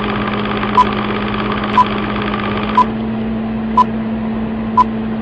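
Short electronic beep tones, one pip about every second, all at the same pitch, over a steady electrical hum and hiss; the hiss thins about three seconds in.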